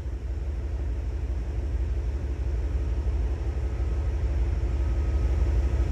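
Rail-yard diesel locomotives running, a low steady rumble with a faint hum over it that grows slowly louder.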